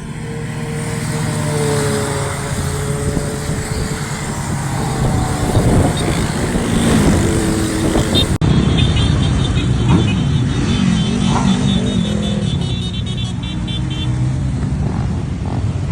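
Several motorcycle engines running and revving, their pitch rising and falling as bikes pull away and pass. The sound changes abruptly about eight seconds in, then the engines carry on.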